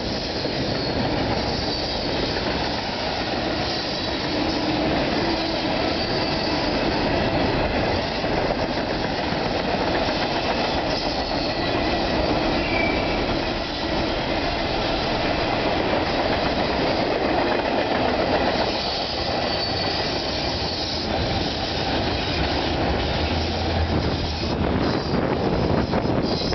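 Freight cars of a double-stack container train and an autorack train rolling past on parallel tracks: a loud, steady rumble and rattle of steel wheels on rail, with a faint high wheel squeal now and then.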